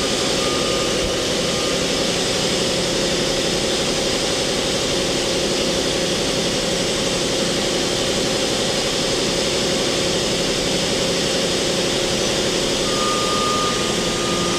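2001 Mori Seiki MT2000SZ CNC mill-turn center running steadily, a dense machine hum with steady tones, while the main spindle is worked in C-axis mode. A thin high whine drops out about a second and a half in and comes back near the end.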